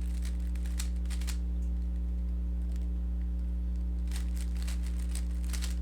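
Rubik's cube being turned quickly by hand: rapid runs of light plastic clicks, one in the first second or so and another from about four seconds in, over a steady electrical hum.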